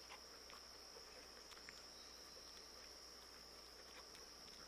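Near silence with a faint, steady high-pitched insect trill and a low hum underneath.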